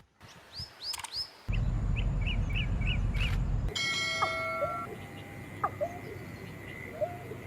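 Birds chirping in short, downward-hooked notes that repeat throughout. A loud low rumble comes in for about two seconds near the middle.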